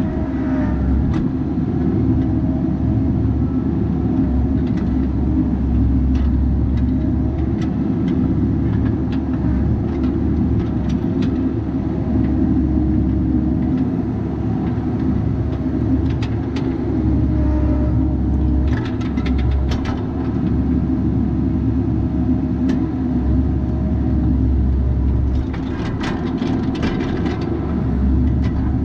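Bobcat 337G mini excavator's diesel engine running steadily with a deep rumble. Bursts of sharp clicks and knocks come about two-thirds of the way through and again near the end.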